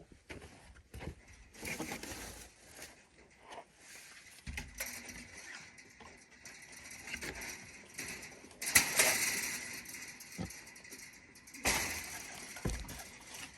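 A metal gate being moved in a hog pen: irregular knocks, scrapes and rattles, with louder rattling clatters about nine and twelve seconds in.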